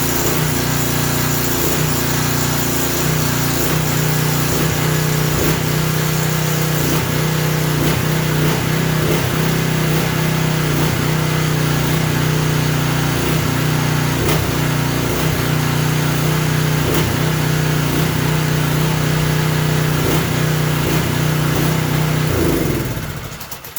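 Craftsman pressure washer's small four-stroke engine running with no water load. It surges, its speed rising and falling about once a second, a surge that should stop once the pump is loaded with water pressure. The engine is shut off near the end and runs down.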